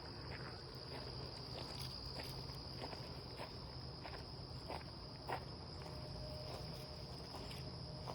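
A steady, high-pitched insect chorus, with footsteps on a woodland trail at irregular intervals.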